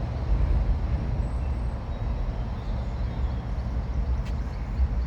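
Steady low outdoor rumble with no speech, with a faint click about four seconds in.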